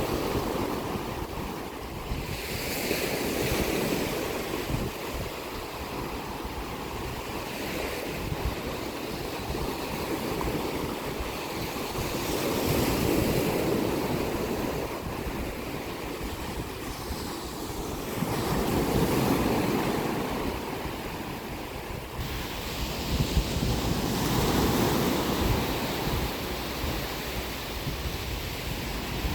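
Sea waves breaking and washing on the shore, rising and falling in slow surges about four times, with wind rumbling on the microphone.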